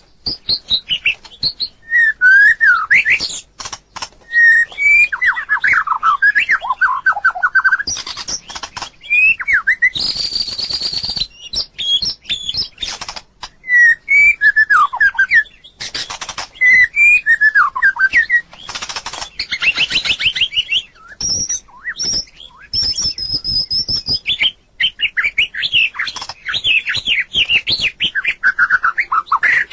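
White-rumped shama singing: phrase after phrase of varied, sweeping whistled notes, mixed with rapid sharp clicks and a few harsh rasping bursts.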